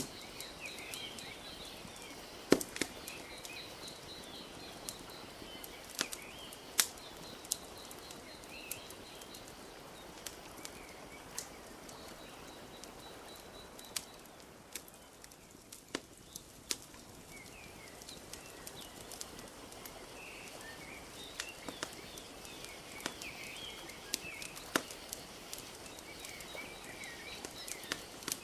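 Wood fire crackling, with irregular sharp pops and snaps over a soft steady wash of lapping lake water. Small bird chirps come and go in the background, fading out through the middle and returning near the end.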